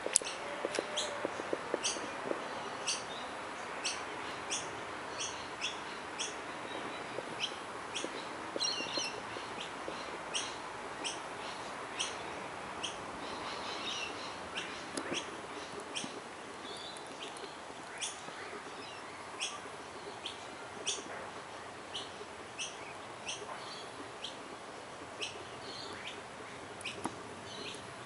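Small birds chirping: short, high chirps repeating one or two times a second over a steady background hiss.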